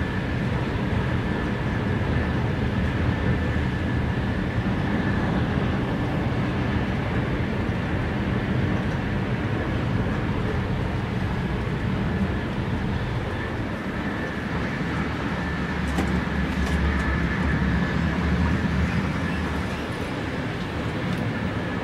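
Running noise of a Sapsan high-speed electric train (Siemens Velaro RUS) at speed, heard inside the passenger car: a steady rush and low rumble with a thin, steady high whine over it.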